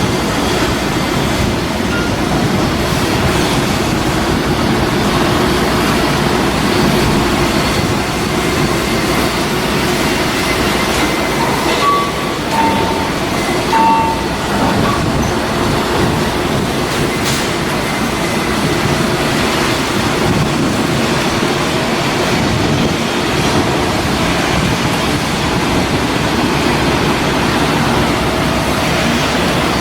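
Steady, loud machinery noise, with a few short high beeps about halfway through.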